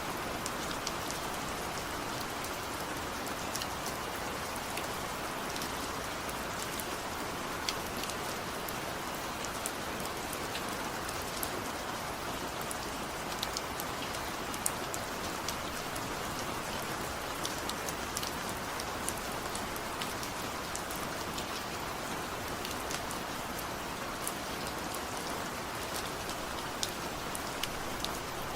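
Steady gentle rain: an even hiss of falling rain with scattered individual drops ticking distinctly on top.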